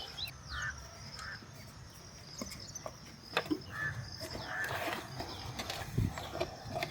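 Birds chirping and calling, with a few sharp clicks and a low rumble underneath.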